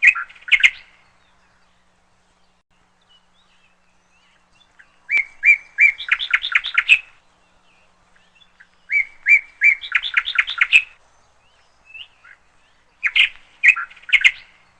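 A songbird chirping in repeated phrases. There is a short burst at the start and another near the end. In between come two longer phrases, each of a few spaced chirps quickening into a rapid run of notes.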